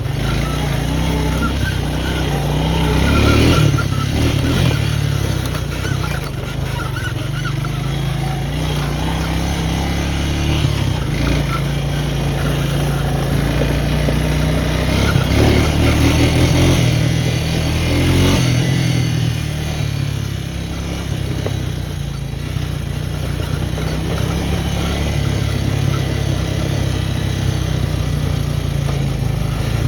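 Four-wheeler's engine running steadily as it is ridden along a dirt trail, the engine speed rising and easing off now and then.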